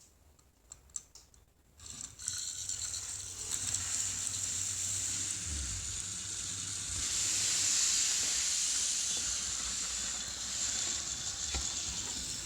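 A few faint clicks, then from about two seconds in a steady high hiss from battery-operated toy trains set going. It swells louder around the middle.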